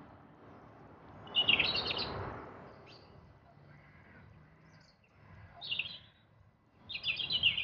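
A songbird singing three short bursts of rapid, high chirping notes, the first with a brief rush of noise under it.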